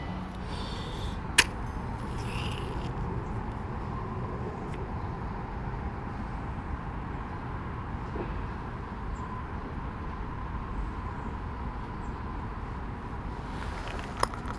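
Steady outdoor background noise with a faint high hum, broken by a sharp click about a second and a half in and another near the end.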